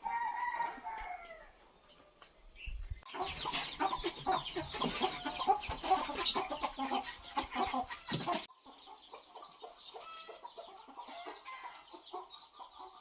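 A flock of chickens clucking. It opens with one falling call, becomes a dense, overlapping clucking for several seconds, then drops abruptly to quieter, sparser clucking about eight and a half seconds in.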